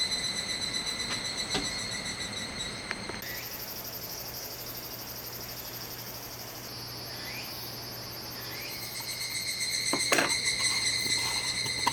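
Summer insects singing in steady, fast-pulsing trills. About three seconds in, a higher-pitched chorus takes over, and the lower trill returns around nine seconds, with a short knock just after ten seconds.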